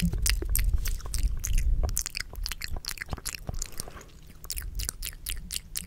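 Close-miked ASMR mouth sounds: rapid, irregular wet clicks and smacks, several a second, with some low rumble in the first couple of seconds.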